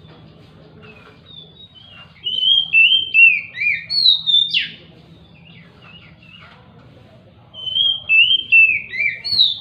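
Oriental magpie-robin (kacer) singing two phrases of clear whistled notes that step down in pitch. The first phrase ends in a loud, sharp call.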